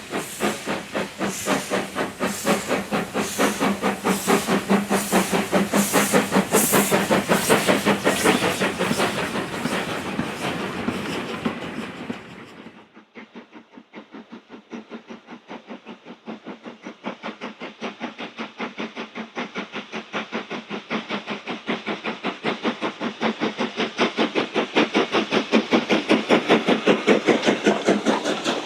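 Steam locomotive working with a rapid, even beat of exhaust chuffs. About halfway through it cuts to another stretch of steam locomotive chuffing that starts quieter and grows louder as the engine approaches.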